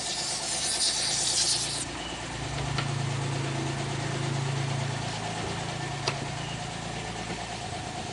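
A blast of compressed air hisses for about the first two seconds and then cuts off. Under it, the BMW E36's M50/M52 inline-six engine runs steadily at idle. The air is being used to blow water out of the spark-plug wells, the water the mechanic blames for the misfire.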